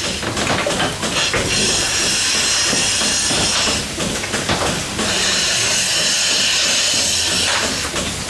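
Goat milking machine running: a loud, steady hiss of rushing air, broken by brief dips about four times.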